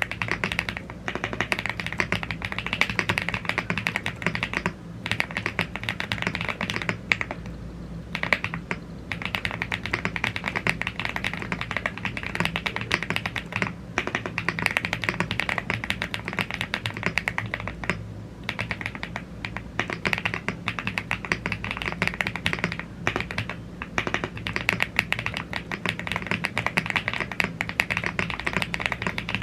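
Fast, continuous typing on a YUNZII AL75 gasket-mounted aluminium mechanical keyboard with Blue Grey tactile switches and double-shot PBT Cherry-profile keycaps. The dense key clicks break off in a few brief pauses, with a steady low hum underneath.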